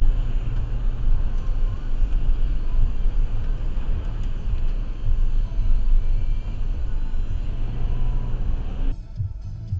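Steady road and engine noise of a car driving, picked up by a dashcam. About nine seconds in it cuts off abruptly and quieter music begins.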